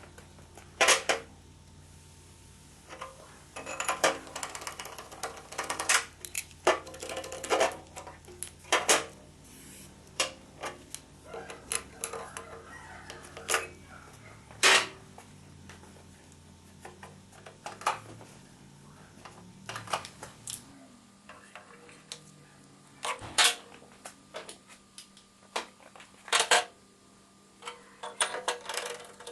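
Metal tools and engine parts clinking and clanking in a workshop: irregular sharp knocks and clinks, some ringing briefly, over a low steady hum that fades out about two-thirds of the way through.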